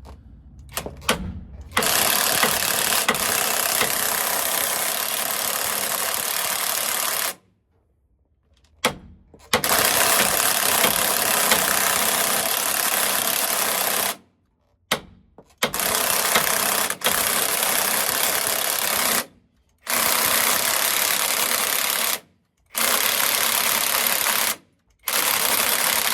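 Cordless impact wrench hammering in six bursts of a few seconds each, with short pauses between, on a stuck driveshaft part; its battery is running down.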